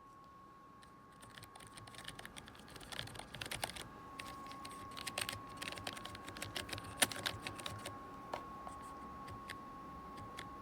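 Typing on a SteelSeries Apex 5 mechanical keyboard with clicky hybrid blue switches: rapid, irregular key clicks, thickest in the first half and thinning out toward the end. A steady high tone sounds underneath.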